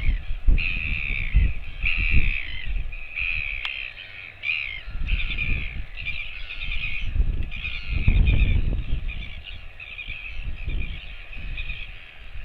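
Harsh animal calls repeated over and over, roughly one a second, over low rumbling noise.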